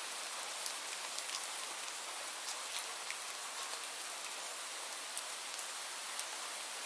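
Steady rain falling: an even hiss with individual drops ticking sharply now and then.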